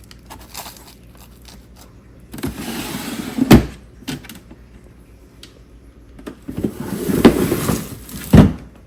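Household objects being slid and set down twice, each time a scraping, rustling slide ending in a sharp thump. The second round has another thump in its middle.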